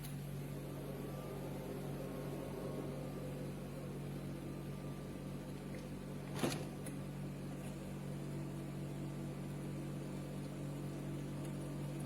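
Small countertop ice maker running with a steady electric hum from its compressor and fan, with one sharp click about six and a half seconds in.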